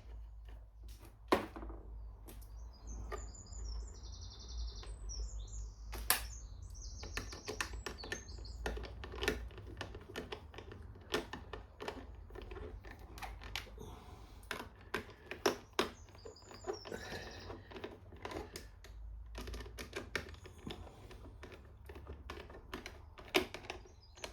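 Irregular small clicks and taps of screws and hand tools on the Jaguar S-Type fuel pump assembly as three outer screws are fitted back in. Birds chirp in the background a few times.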